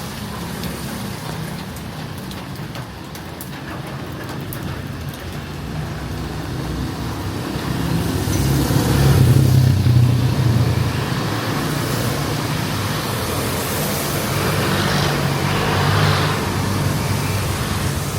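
Street traffic: motor vehicle engines running low and steady. One vehicle passes close and is loudest about nine to ten seconds in, and another swells again near the end.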